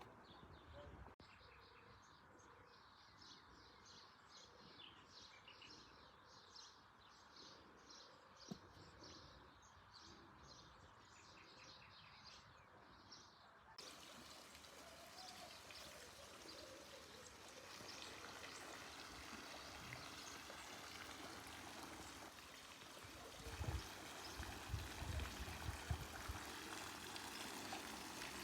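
Faint birdsong of quick, repeated high chirps, then, after an abrupt change, the steady rush of running water, with a few low thumps near the end.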